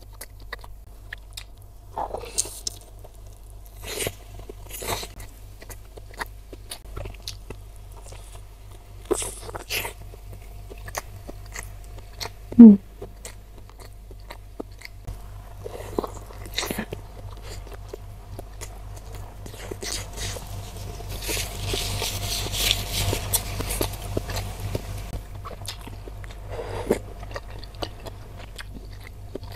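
Close-miked chewing and biting of a jumbo beef-tendon meatball (bakso urat), with wet mouth clicks and smacks. There is a brief hummed 'mm' a little before the middle, and a few seconds of soft hiss later on.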